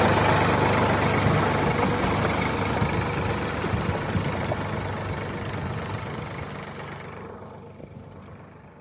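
A vehicle engine running steadily, fading away gradually until it is almost gone near the end.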